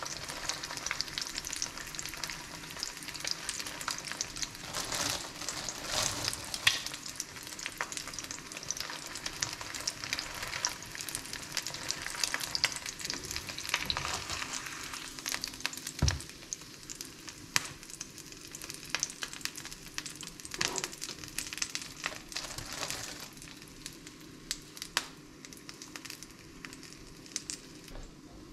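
Egg-coated bread frying in a pan: a steady crackling sizzle full of small clicks, with one sharp knock about halfway through. The sizzle quietens in the second half.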